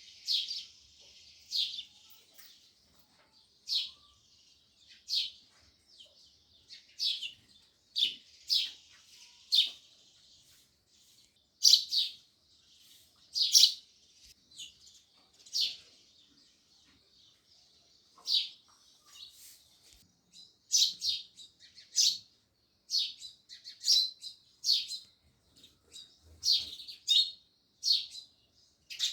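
House sparrows chirping: short, separate chirps at an uneven pace, a little faster and busier in the last third.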